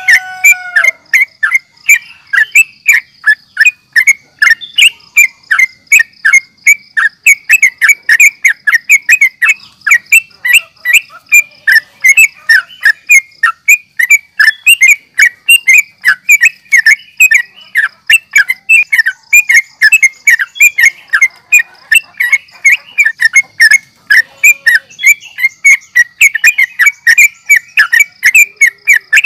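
Yellow-vented bulbul (trucukan) singing an agitated, fighting-style song: loud, rapid, chattering notes repeated about three times a second without a break, over a faint steady high-pitched hiss.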